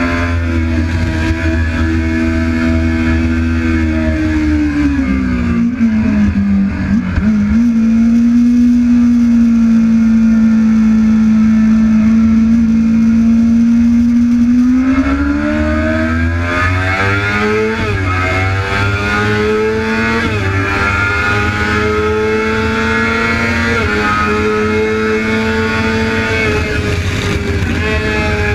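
Yamaha R6 sport bike's inline-four engine running hard at high revs, heard from a camera on the fuel tank. Its pitch falls about five seconds in, holds high and steady for several seconds, then climbs again with brief sharp dips near the 18- and 24-second marks.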